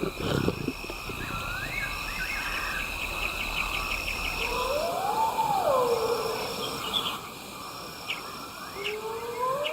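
Insects chirping in a steady, evenly repeated pulse, with a brief rapid trill early on. A rising-and-falling whistled call sounds twice, about five seconds in and again near the end.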